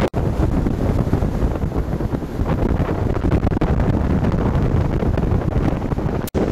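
Strong wind buffeting the microphone in a continuous low rumble, cutting out for an instant just after the start and again near the end.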